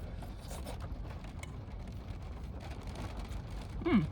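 Steady low rumble of wind and rain on a car, heard from inside the cabin, with faint scattered ticks. Near the end a short hummed "mm" that falls in pitch as someone tastes hot food.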